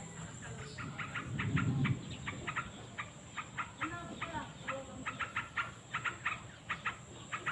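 Small birds chirping: runs of short, sharp chirps, several a second, starting about a second in.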